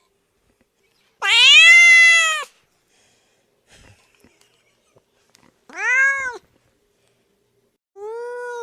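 Domestic cat meowing three times, each meow rising then falling in pitch; the first, about a second in, is the longest and loudest, and the last is cut off at the end.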